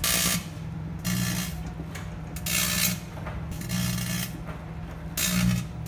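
Microwave oven running with a steady low hum, broken by about five short hissing bursts, roughly one every second and a half, as batteries inside it spark and light up.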